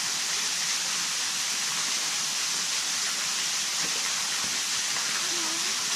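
Steady rushing of water: an even, unbroken hiss.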